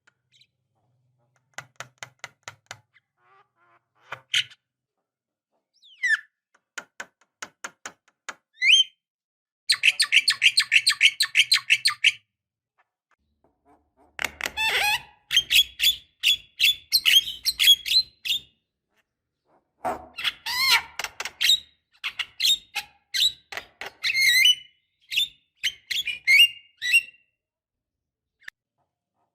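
Javan myna (jalak kebo) singing: scattered sharp clicks, then a rapid rattling run of notes, then long bursts of harsh chatter mixed with short whistles, with brief pauses between phrases.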